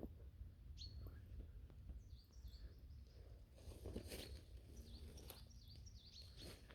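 Faint woodland ambience with small birds giving short, high chirps several times, and a little rustling about four seconds in.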